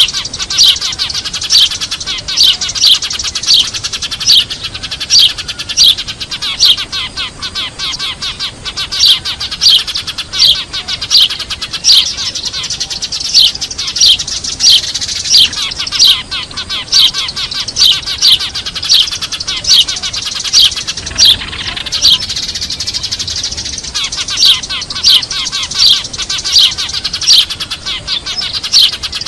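A flock of Eurasian tree sparrows chattering noisily, the kind of call used as a trapping lure. Loud, sharp high chirps repeat about three every two seconds over constant dense twittering, with a brief dip about two-thirds of the way through.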